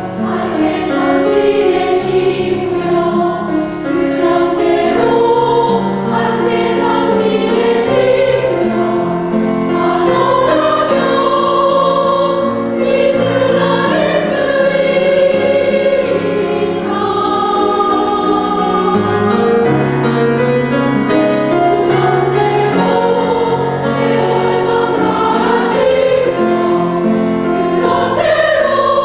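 Buddhist temple choir singing, many voices in sustained, held notes.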